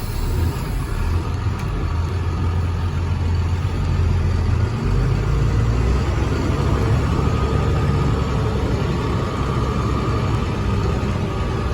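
Diesel engine of a 2004 International truck pulling away in gear, heard from inside the cab. The engine runs steadily, and its low note drops about halfway through.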